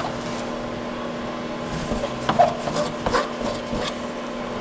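Scattered light knocks and clicks of hand work on a fibreglass repair, over a steady machine hum. The knocks come in a cluster between about two and four seconds in.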